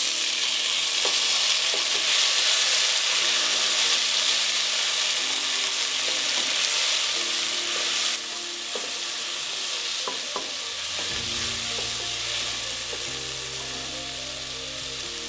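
Chopped tomatoes dropped into hot oil with fried onions, ginger and garlic: a loud sizzle that starts suddenly, eases slightly about eight seconds in, and carries on while a wooden spatula stirs the pot with small knocks.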